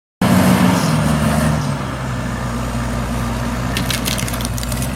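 Bulldozer's diesel engine running steadily, its note dropping slightly about a second in, with a cluster of sharp crackles near the end.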